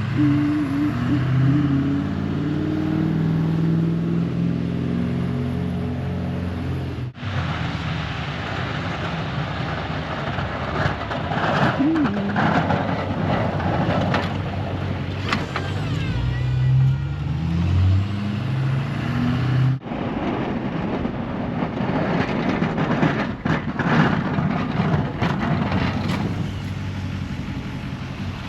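Pickup plow truck engine running, its pitch rising and falling as it speeds up and slows down. The sound cuts off abruptly twice, about seven seconds in and again near twenty seconds.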